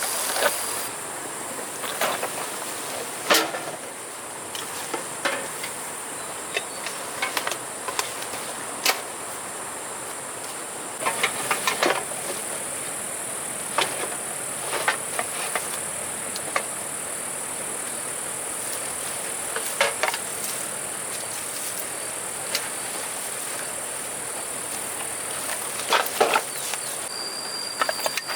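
Steady high-pitched insect drone, with scattered sharp clicks and knocks over it.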